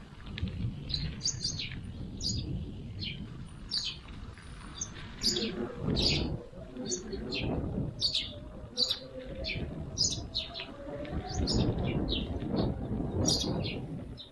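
Small birds chirping repeatedly in woodland, short high calls that sweep downward, coming every half second or so. Underneath runs a steady low rumbling noise.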